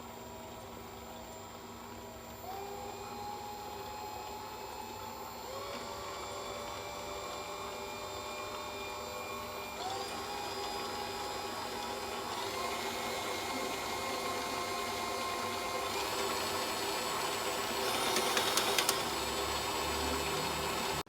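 Kitmens stand mixer's motor running with a steady whine that steps up in pitch about five times as the speed is raised, growing louder, with a rattle near the end.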